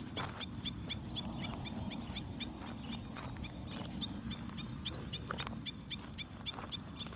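A bird calling in a fast, even series of short high chirps, about four to five a second, over a low rumble of wind on the microphone.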